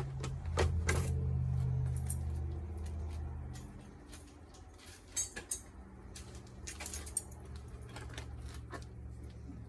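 Scattered light metallic clinks and rattles of tools and loose metal parts being handled during the dismantling of a washing machine, over a steady low hum.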